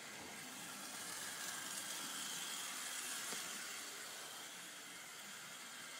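Märklin model train running on the layout's track: a faint, steady rolling hiss that swells slightly about a second in, then eases off.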